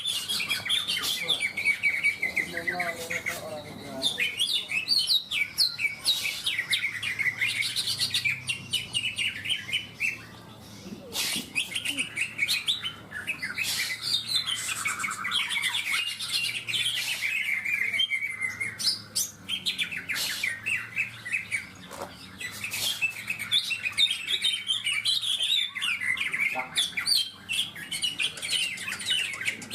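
Several greater green leafbirds (cucak ijo) singing at once, a continuous dense stream of quick chirping and trilling notes.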